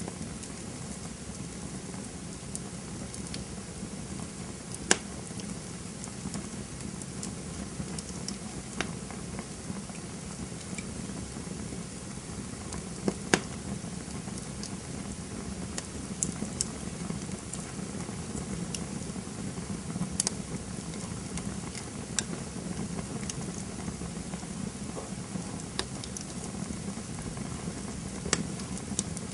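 Campfire burning, a steady low rush of flames with irregular sharp crackles and pops of burning wood; the loudest pops come about five seconds in and a pair about thirteen seconds in.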